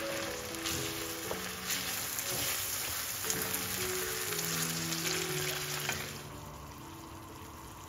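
Ground beef and pumpkin purée sizzling in a stainless steel frying pan while a wooden spatula stirs them, with a few light scrapes against the pan. The sizzle dies down about six seconds in.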